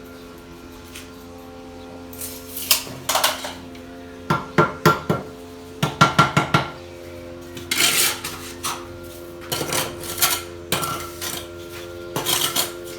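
Bricklaying: a steel mason's trowel scraping and clinking against mortar and brick, with groups of sharp taps as bricks are set, over a steady low hum.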